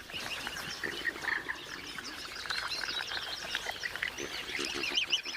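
Newly hatched swan cygnets peeping: many short, high calls overlapping in a busy chatter.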